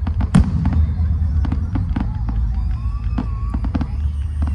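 Fireworks going off: a rapid scatter of sharp cracks and pops, with one loud bang about half a second in, over a steady low rumble.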